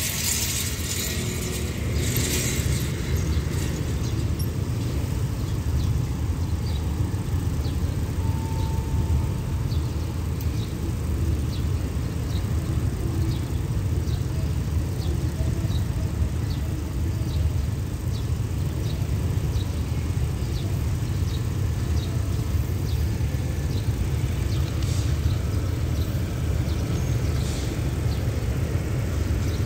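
Steady low rumble of an approaching diesel express train still some way off, with faint short ticks repeating roughly once a second from about six seconds in.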